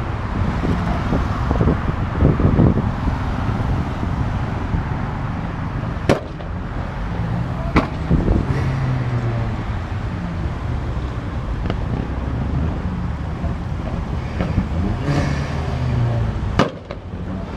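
Car engines running and revving at low speed, a steady low rumble, broken by four sharp cracks a few seconds apart.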